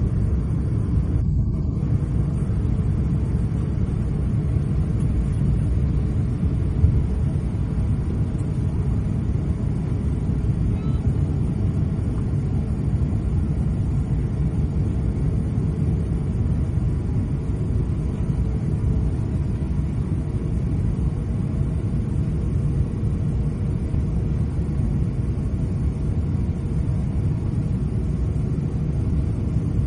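Steady low rumble in the cabin of an Airbus A350-900 taxiing after landing: its Rolls-Royce Trent XWB engines at taxi idle and the airframe rolling along the taxiway.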